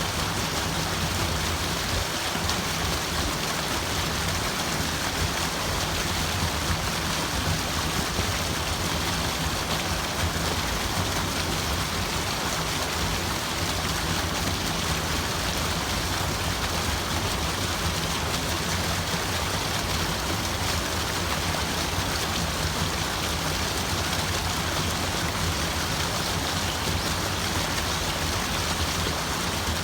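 Steady rushing, splashing water, an even unbroken wash of sound.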